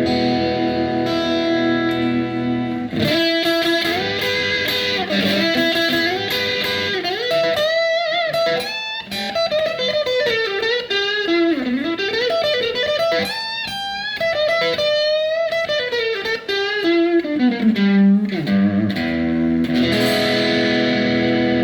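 PRS 24-08 electric guitar playing held chords, then a single-note lead line with string bends and vibrato, returning to held chords near the end.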